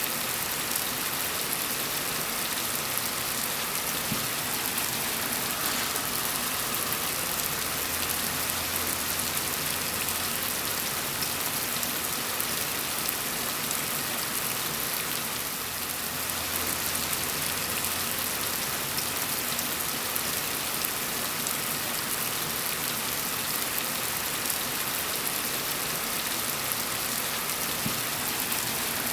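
Steady, gentle rain falling in an even, unbroken patter of drops.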